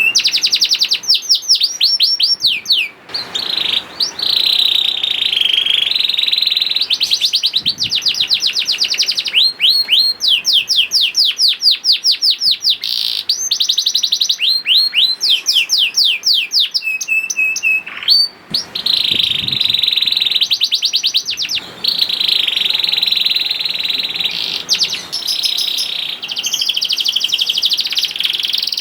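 Young domestic canary singing continuously in high, fast trills: runs of quick repeated down-sweeping notes alternate with buzzy rolling phrases, with a few brief pauses.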